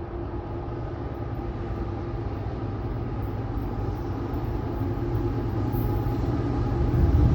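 Diesel train approaching, its engine's deep rumble and steady hum growing steadily louder.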